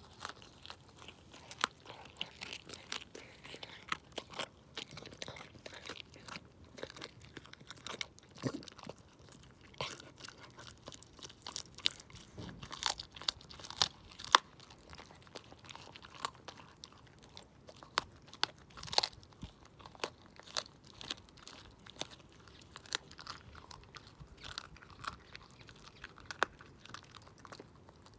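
A Shiba Inu chewing raw chicken wing tips, its teeth crunching through the bones in quick, irregular bites with wet chewing in between.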